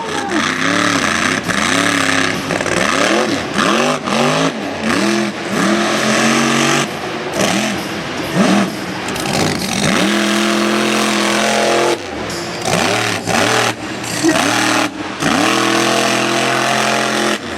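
Mega truck engine revving hard, its pitch sweeping up and falling back again and again, with short sudden drops in sound between the revs.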